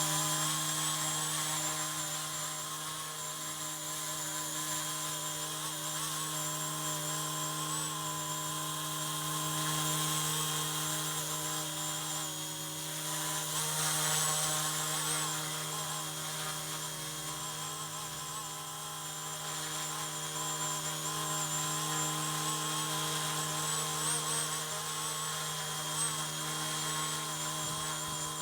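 Small electric motors and rotors of an Eachine E190 Huey RC helicopter running, a steady high whine that wavers slightly in pitch.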